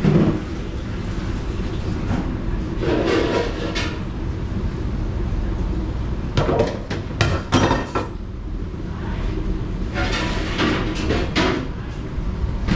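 Dishes, pots and utensils clattering and knocking in bunches, over a steady low machine rumble.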